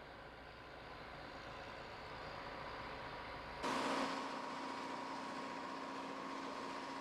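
Diesel locomotive engine running steadily. About halfway through, the sound changes abruptly to a louder, steady drone with a low hum and a higher whine.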